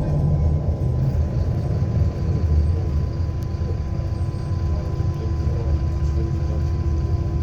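MAZ-107.468 city bus heard from inside the passenger cabin: a steady low rumble of the running bus, with a faint steady whine over it.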